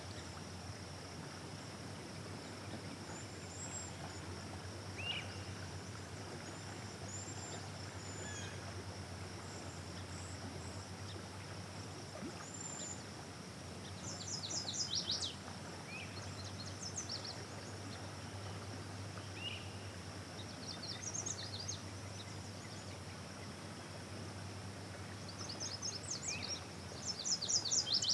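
Outdoor ambience: birds chirping, with several runs of quick high trilled notes, over a steady low hum.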